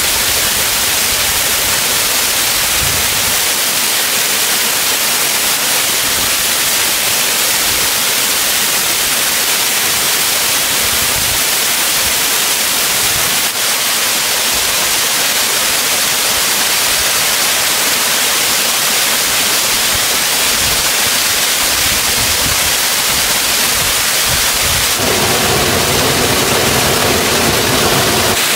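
Stream waterfall rushing: a loud, steady hiss of falling water. A low hum joins near the end.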